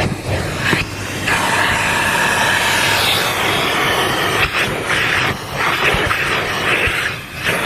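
Vacuum cleaner running with a loud steady hiss, dipping briefly several times as the sound shifts.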